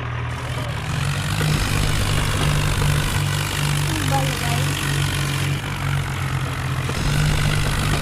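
Tractor engine running steadily at a low, even pitch with a regular throb.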